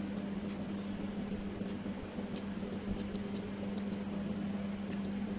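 Close-up eating sounds from people eating rice by hand: small scattered wet clicks and smacks of chewing mouths, over a steady low hum.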